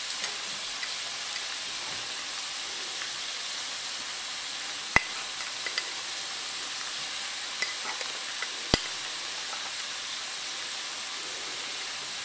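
Crumbled breakfast sausage frying in a nonstick skillet with a steady sizzle while flour is sprinkled over the browned meat. A few sharp clicks cut through the sizzle, the loudest about five seconds in and again near nine seconds.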